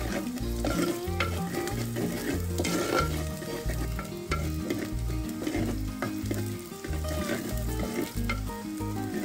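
Chopped onion and green chilli sizzling in oil in a clay pot, stirred with a wooden spoon that clicks and scrapes against the pot. Background music with a steady bass beat plays under it.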